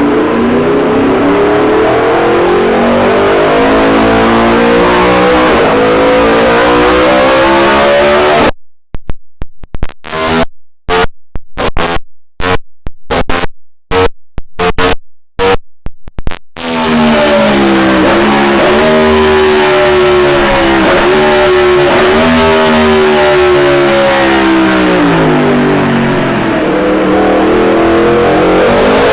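2019 Yamaha MT-10's crossplane inline-four engine on a dyno power run through an Akrapovic titanium can and de-cat, its pitch climbing steadily as it pulls up the rev range. About eight seconds in, the sound turns choppy and broken for several seconds, then a second long climb in pitch follows.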